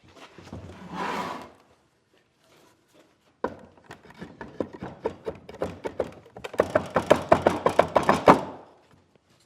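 A short scraping hiss, then a quick run of sharp knocks or clicks on wood starting a few seconds in, coming faster and louder to several a second before stopping near the end.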